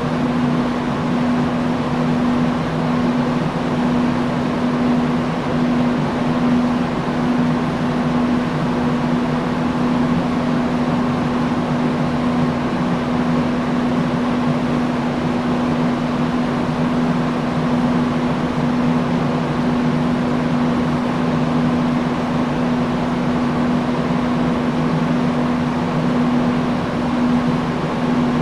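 Industrial fan running steadily: a constant rush of air with a steady low motor hum.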